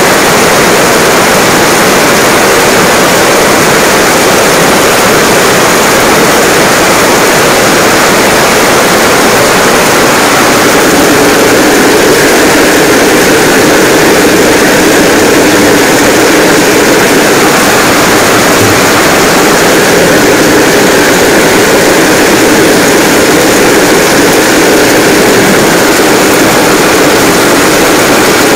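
Heavy rain pouring down steadily, a dense, loud hiss of downpour falling on stone steps and paving.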